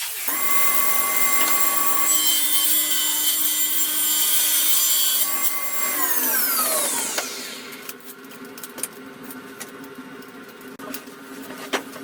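Electric power saw running and cutting wood. About six seconds in it is switched off and its motor whine falls away as it spins down, leaving a quieter steady hum with scattered ticks.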